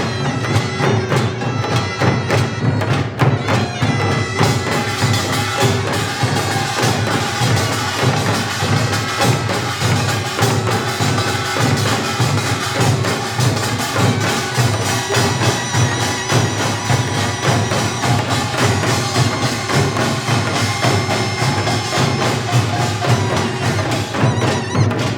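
Korean pungmul band playing loudly: a dense, driving rhythm of drums and small gongs, with the nasal, reedy melody of a taepyeongso shawm held above it.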